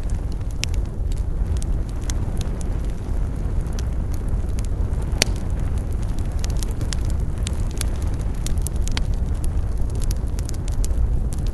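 Campfire burning with a steady low rumble and frequent sharp crackles and pops of the wood, one louder pop about five seconds in.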